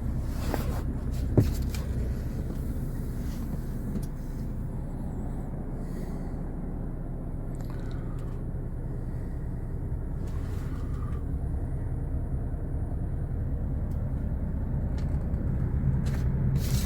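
2016 MAN TGX 26.440's 440 hp Euro 6 straight-six diesel running with a steady low rumble, with one sharp click about a second and a half in.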